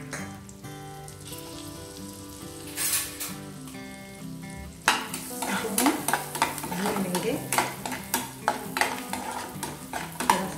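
Whole spices, green chillies and ginger sizzling in hot oil and butter in an aluminium pan. From about halfway through, a metal spatula stirs and scrapes against the pan in quick, repeated strokes.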